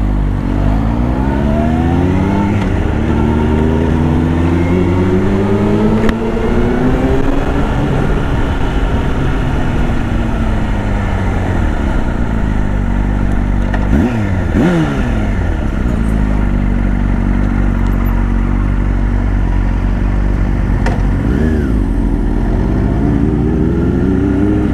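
2002 Yamaha R1's inline-four engine under way, its pitch climbing as it accelerates through the revs and falling back, with a quick sharp rev and drop about halfway and another climb near the end, over a steady low rumble of wind and road.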